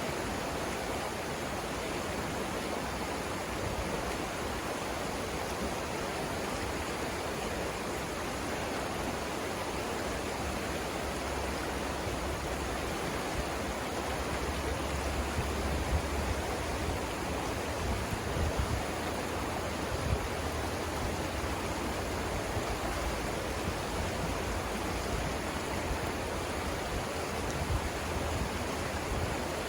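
River rapids rushing steadily, an even hiss of white water. A deeper low rumble swells for a stretch in the middle.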